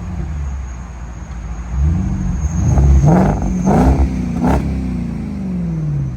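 2012 Porsche Cayenne's engine revving through a Kinney's custom performance exhaust. It runs low and steady at first, then from about two seconds in the revs climb in a few quick blips to a peak, and fall smoothly back toward idle.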